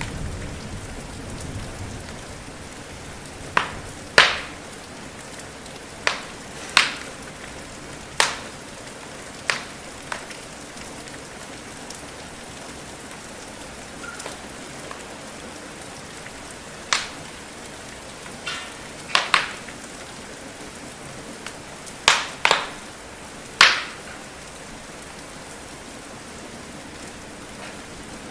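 Steady rain hiss with a wood fire crackling over it: about a dozen sharp pops, some in quick pairs, between about three and twenty-four seconds in. A low rumble of thunder dies away in the first couple of seconds.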